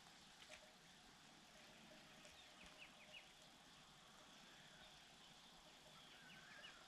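Near silence: faint outdoor ambience with a few faint, brief high chirps or ticks.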